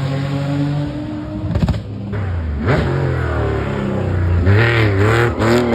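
Porsche rally car engine: a steady note dies away in the first second, then after a short lull the engine revs up and down in quick repeated throttle blips through the second half.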